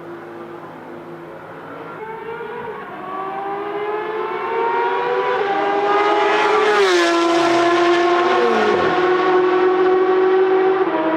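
Porsche 992 GT3 RS's naturally aspirated flat-six through an aftermarket Brillsteel Edizioni Corsa exhaust, accelerating hard toward the microphone with its pitch climbing. It passes about seven seconds in with a sharp drop in pitch, and stays loud afterwards.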